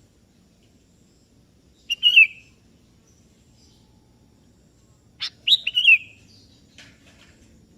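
Sooty-headed bulbul calling: a short burst of clear notes about two seconds in, then a longer phrase of three or four quick notes a little past the middle.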